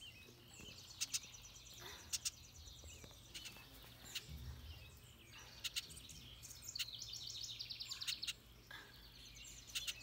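Small birds chirping faintly, with high-pitched rapid trills that are strongest about two thirds of the way through and again near the end. A few short sharp ticks are mixed in.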